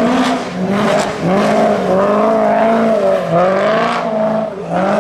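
Rally car engine running hard at high revs, its pitch climbing, holding and dropping back several times as the throttle is worked through the stage.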